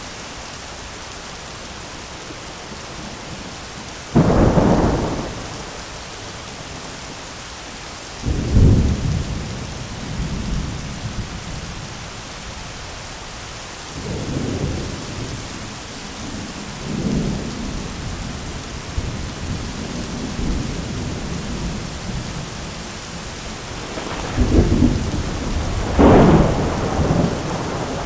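Thunderstorm: steady rain with thunder breaking over it several times. A sudden loud clap comes about four seconds in, and lower rolls follow. Two loud peals close together come near the end.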